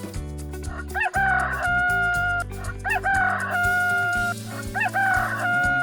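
Rooster crowing three times, each crow a short rising note followed by a long held note, over a steady bed of background music.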